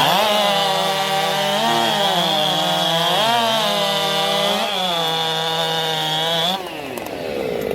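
Racing chainsaw's two-stroke engine screaming at full throttle, its pitch sagging briefly three times as it is loaded. It cuts off about six and a half seconds in.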